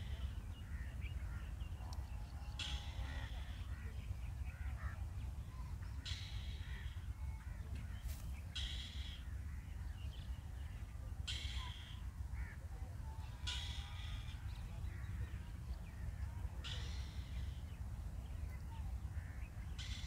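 A bird giving short, harsh calls, one about every two to three seconds, over a steady low rumble.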